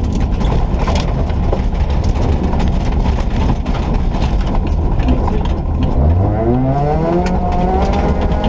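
The 1.4-litre engine of a Ford Ka rally car running hard on a stage, over loud road noise with many small clicks and knocks. About six seconds in, the engine note drops and then climbs steadily as the car accelerates.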